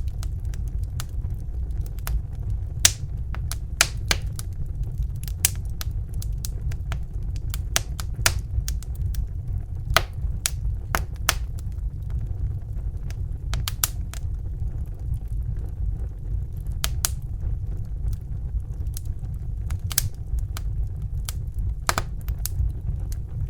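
Crackling fire: irregular sharp pops and snaps, several a second, over a steady low rumble.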